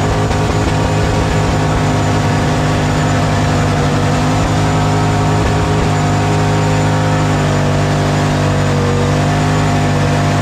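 Turbocharged LS V8 running loud at a steady engine speed, its pitch shifting slightly about seven seconds in.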